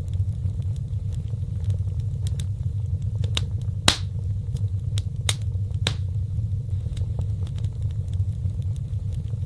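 Fireplace fire crackling, with scattered sharp pops over a steady low rumble; the loudest pop comes about four seconds in.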